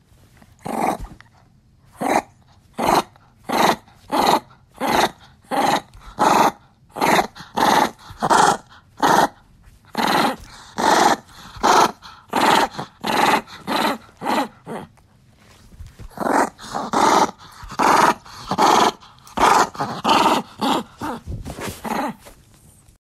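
An angry dog growling and barking: a low steady growl under a fast series of short, sharp barks, about one to two a second, with a short break about two-thirds of the way through.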